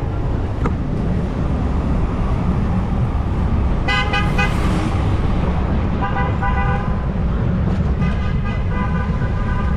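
Vehicle horns honking in street traffic: three honks of about a second each, roughly four, six and eight seconds in, over a steady low traffic rumble.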